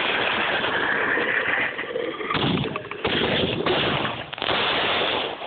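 Fireworks going off close by in a dense, unbroken run of rapid bangs and crackling. New volleys start abruptly about two and a half, three and three and a half seconds in.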